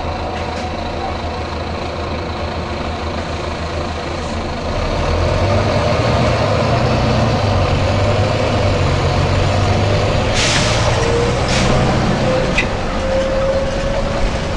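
Volvo B9TL bus's six-cylinder diesel engine idling, then running louder from about five seconds in, with a rising whine near the end as it picks up. About ten seconds in the air system lets out a short hiss, and a shorter one follows about a second later.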